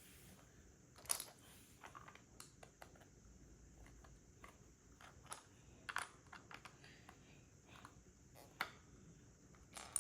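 Plastic Lego pieces being handled and pressed together: irregular sharp clicks and taps, the loudest about a second in, around six seconds and near the end.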